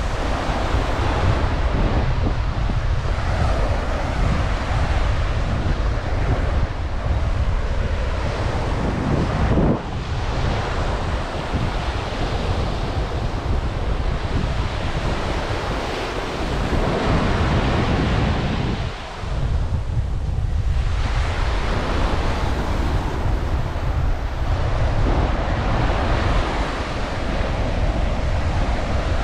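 Ocean surf breaking and washing up a sand beach in slow swells, with wind rumbling on the microphone.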